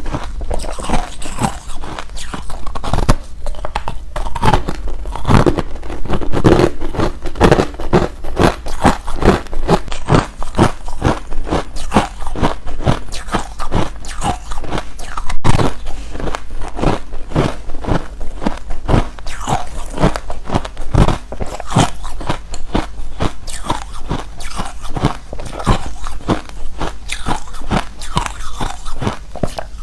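Close-miked biting and chewing of hard refrozen crushed ice: a rapid, irregular run of loud, crisp crunches, several a second.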